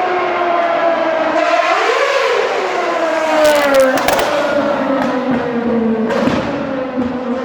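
Formula 1 car engine running at high revs, its pitch sliding slowly down with a brief rise about two seconds in. A few sharp cracks come around four seconds in.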